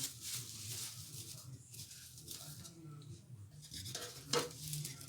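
Kitchen handling noises: rustling and scraping, with a sharp knock about four and a half seconds in.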